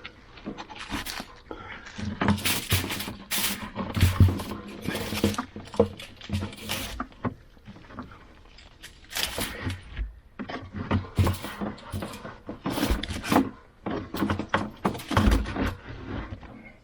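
Irregular scraping, rustling and knocking of electrical cable and pull line being pushed down a hole in a wall cavity, in two clusters of handling noise with a quieter gap between them.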